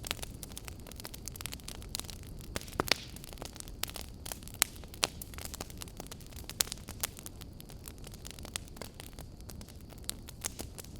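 Wood fire burning in a fireplace: a steady low rumble of flames with irregular crackles and sharp pops throughout, the loudest pops just before 3 seconds in and about halfway through.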